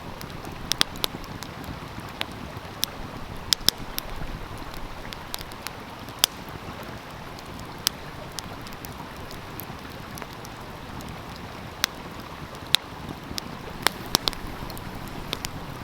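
Wood fire crackling, with scattered sharp pops, over the steady rush of a flowing stream.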